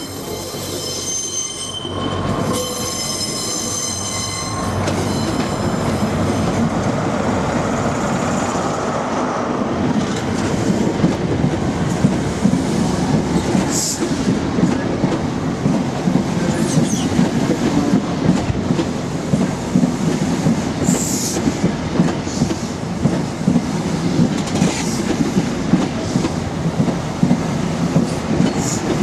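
Great Western Railway HST with Mk3 coaches rolling past close by: a steady rumble of wheels on rail with rhythmic clickety-clack and a few brief wheel squeals. A high whine sounds for the first four seconds, then the rumble builds.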